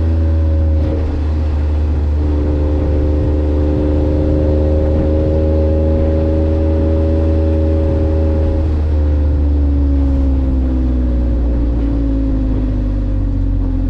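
Kei truck's 660 cc three-cylinder engine heard through an aftermarket muffler: a deep, steady exhaust drone under way, its pitch holding level, then dropping over the last few seconds as the engine comes off the throttle.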